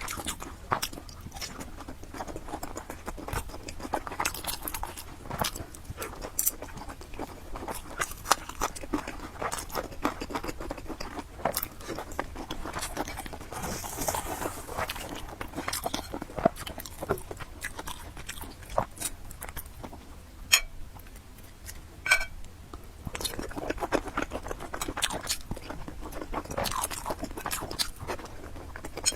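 Close-miked mukbang eating: steady chewing with many wet clicks and smacks of the mouth, and a short hissing sound about halfway through.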